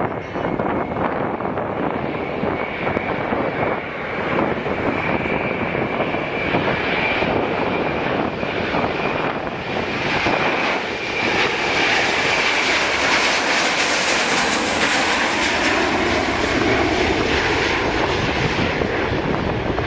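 Airbus A321-200 jet engines at takeoff power, a steady high whine over a rushing noise that grows louder toward the middle, then a slowly falling tone as the airliner passes by.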